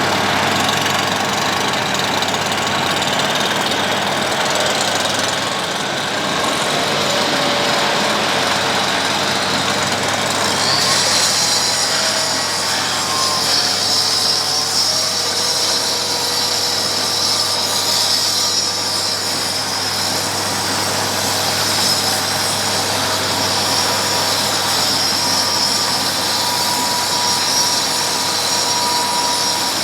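Road planing machine (cold planer) working, its engine running at a loud, steady drone. About eleven seconds in, a high hissing whine joins and carries on.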